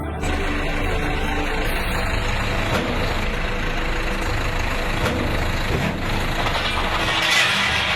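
A heavy truck running: a dense, steady engine and road noise with a low rumble, growing louder with extra hiss near the end.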